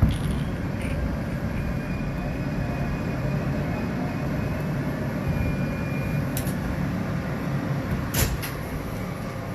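N subway train heard from inside the car, running on the elevated track with a steady low rumble, a few sharp clanks and faint thin wheel squeal.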